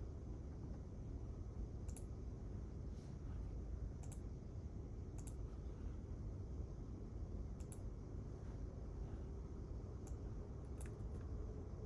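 Quiet library room tone: a steady low hum with scattered sharp small clicks at irregular intervals, about eight in all.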